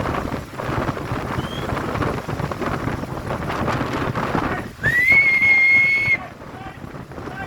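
Gale-force storm wind buffeting the microphone with a steady rushing noise. About two thirds of the way in, a loud, steady high-pitched whistle sounds for about a second and a half, then cuts off.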